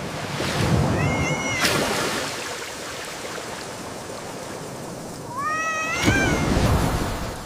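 A cat meowing twice over a steady rushing noise of heavy rain and water: a short meow about a second in, then a longer, rising meow near the end.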